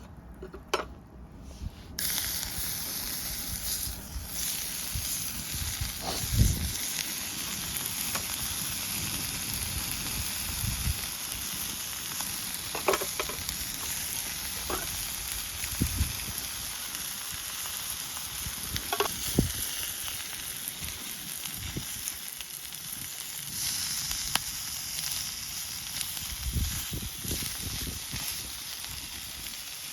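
Food sizzling in a hot cast-iron skillet, the sizzle starting suddenly about two seconds in, with a few short knocks against the pan.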